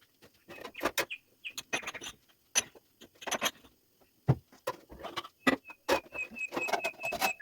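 Household handling noises: a string of clicks, knocks and rustles of things being picked up and set down, with a quick run of short high chirps, about five a second, near the end.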